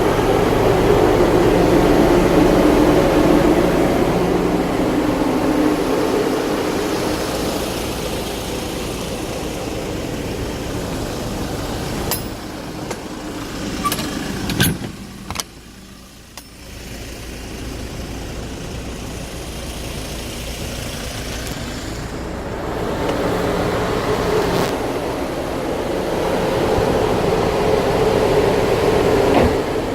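Hyundai Porter II truck running, with a steady engine rumble. The sound eases off and drops low about halfway through, with a few sharp clicks, then builds up again.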